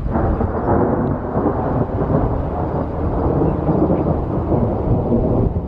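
Thunder from a cloud-to-ground lightning strike: a loud crackling rumble that breaks in suddenly and rolls on for several seconds before falling off near the end.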